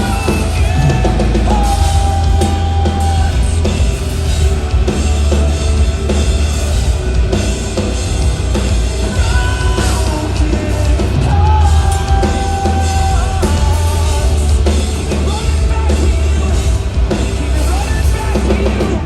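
Post-hardcore band playing live at full volume: the singer holds the line "broken hearts" early on, then distorted guitars and a drum kit play on without vocals. The music cuts off at the very end.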